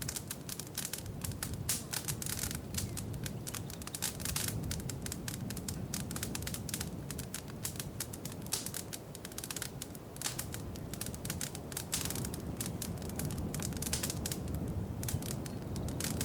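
Wood fire crackling in a fireplace: a dense run of sharp pops and snaps over a steady low rumble of flames.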